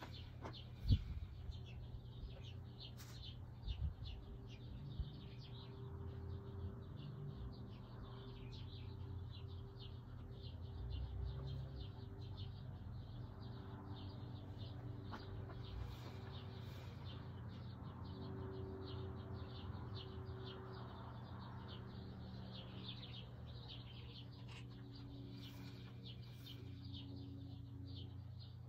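Small birds chirping rapidly and continuously, over a steady low hum. A few sharp knocks come in the first five seconds, the loudest about a second in.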